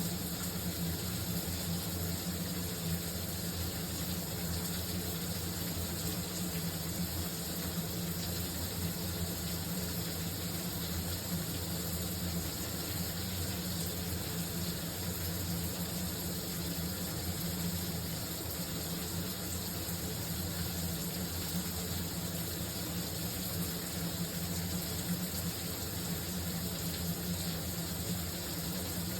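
Shower running steadily: an even hiss of falling water with a low rumble underneath.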